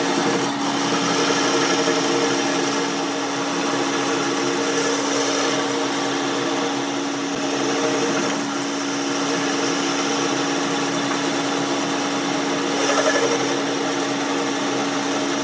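Steady running noise of a power tool or workshop machine, with a constant humming tone and no clear stops or strikes.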